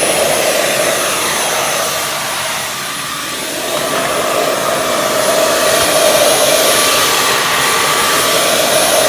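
Dyson V11 cordless stick vacuum running with its brush attachment: a steady rush of air with a thin high motor whine. It dips in loudness about two to three seconds in and comes back up about a second later.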